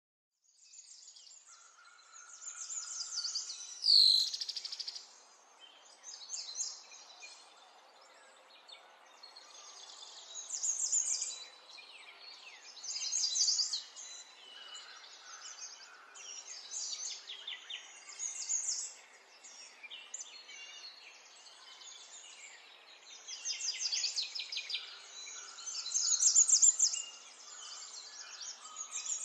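Songbirds chirping and trilling in repeated bursts, with one loud sweeping call about four seconds in, over a faint steady background hiss.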